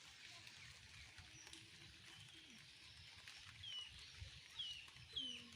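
A bird giving three short falling chirps in the second half, over faint outdoor background hiss.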